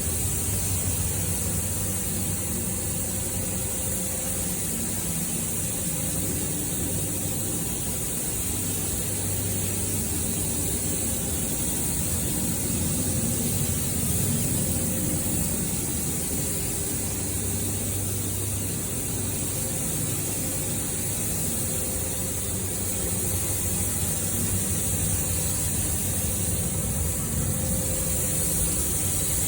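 Steady low mechanical hum with an even high hiss over it, unchanging throughout.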